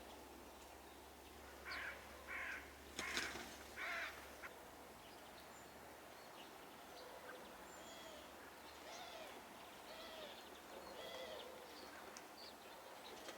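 A bird gives four harsh, rasping calls in quick succession about two seconds in. Small birds chirp softly and intermittently after them.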